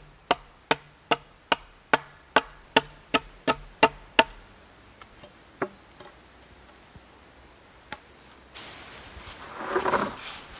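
Wood being chopped with a hand tool in quick, sharp strokes, about two and a half a second, stopping about four seconds in, with a few single strikes after. Near the end a rustling noise rises and fades.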